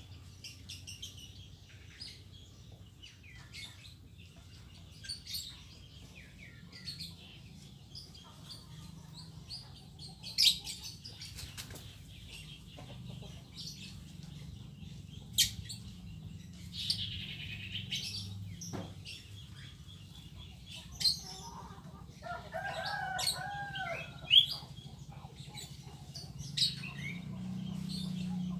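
Caged birds chirping with short, scattered high calls, with wing flutters in the cages.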